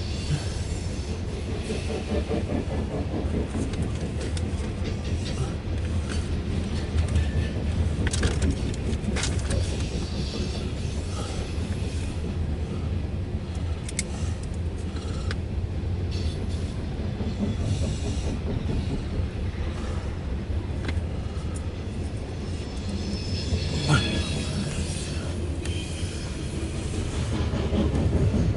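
Loaded CSX coal train rolling past: a steady rumble of wheels on rail, with scattered clicks and clanks from the passing cars and one sharper bang near the end.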